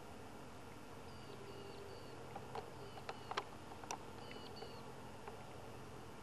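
A small bird calling faintly in a series of short, high chirps that each drop in pitch at the end. A few sharp clicks come in the middle, over a steady low hum.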